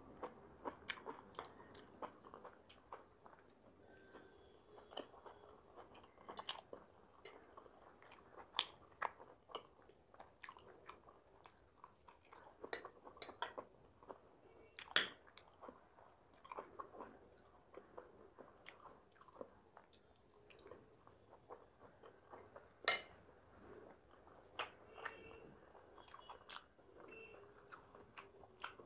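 Close-miked chewing and mouth sounds of a person eating chilli paneer, with many small wet clicks and a few sharper clicks, the loudest about two thirds of the way in.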